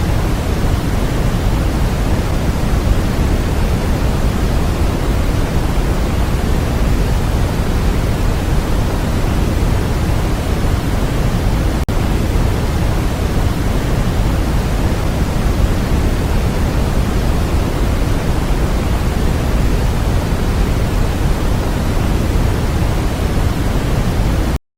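Steady synthetic noise from a sleep-aid track: an even, deep hiss, heavier in the bass than in the treble. It drops out for an instant about twelve seconds in and cuts off just before the end.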